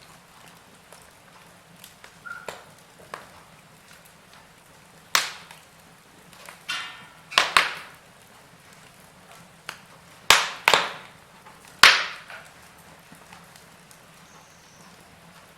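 Wood fire in a fireplace crackling, with sharp pops at irregular intervals over a faint steady hiss; the loudest pops come in the second half.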